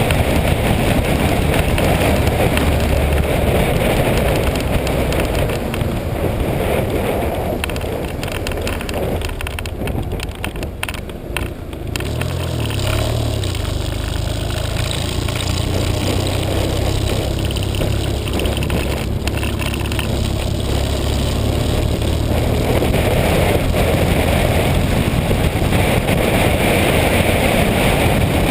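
Motorcycle ridden on the road: the engine runs under steady wind noise. It eases off around ten seconds in, then pulls steadily again.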